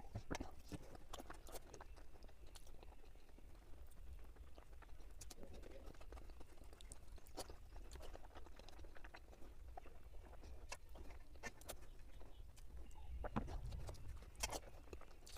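A person chewing and eating egg curry with rice, with scattered small wet clicks from the mouth.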